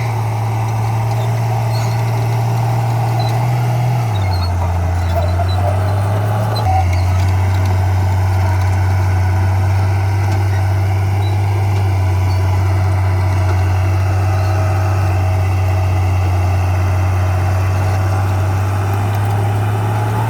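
Diesel engine of heavy earthmoving equipment running steadily, its low note dropping slightly about four seconds in and again near seven seconds as the load changes.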